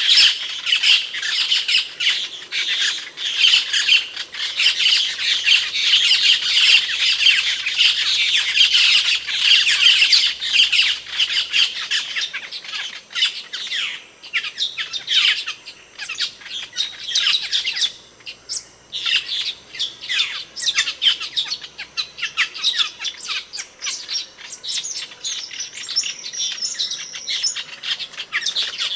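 Asian glossy starlings calling: many dense, overlapping high calls that thin out into sparser, separate calls after about twelve seconds.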